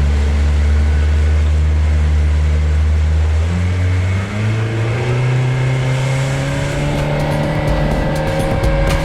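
Yamaha outboard engine on a small center-console boat running steadily at low speed, then throttling up about three and a half seconds in, its pitch climbing steadily as the boat gets underway.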